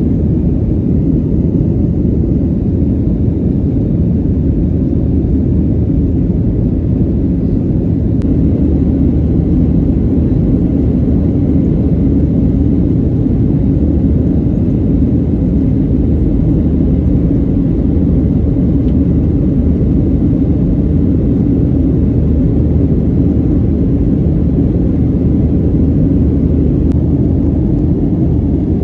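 Steady low drone inside the passenger cabin of a Boeing 737-900 in flight: engine and airflow noise with no change in level.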